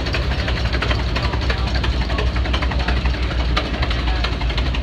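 An engine running steadily: a low rumble with a fast, irregular clatter of clicks over it.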